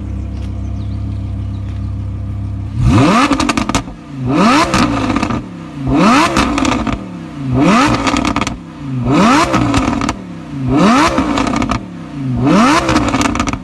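Audi R8 V10 Plus 5.2-litre V10 with a decatted Brooke race exhaust idling, then revved hard seven times, about one blip every second and a half. Each blip falls away with crackles and pops on the overrun from its custom pops-and-bangs tune.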